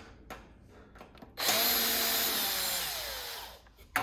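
Power drill-driver backing out a screw: its motor whines steadily for about two seconds, then falls in pitch as it winds down, with a few light clicks before it and a sharp click near the end.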